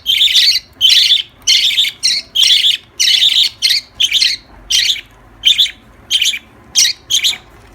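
Pet lovebirds giving harsh, rasping chirps over and over, about two a second, with the calls growing shorter toward the end.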